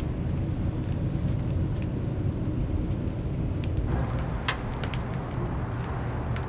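Oak-wood fire crackling, with scattered sharp pops over a steady low rumble.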